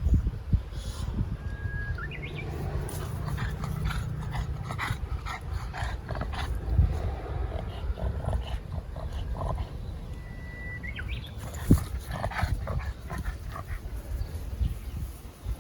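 A Boston terrier's sounds close to the microphone, with two brief high whines, one about two seconds in and another about eleven seconds in.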